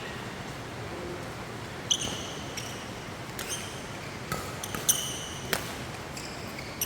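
Badminton doubles rally on an indoor court: shoes squeaking sharply on the court floor and rackets striking the shuttlecock, a scattered series of short sharp sounds in the second half.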